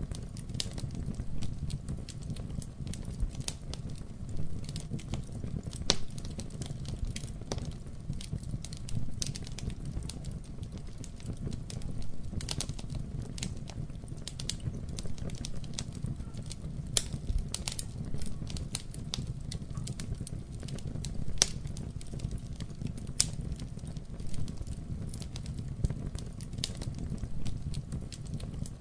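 Wood fire burning in a fireplace, with a steady low rumble of flames and frequent irregular sharp crackles and pops.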